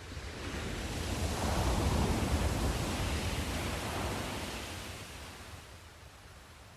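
Sea surf: one wave swells in, breaks and washes up the shore. It builds to its loudest about two seconds in, then slowly fades away.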